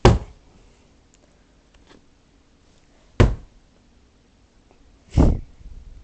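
Three sharp slaps from swatting at a mosquito: one at the start, one about three seconds later and a duller one about two seconds after that.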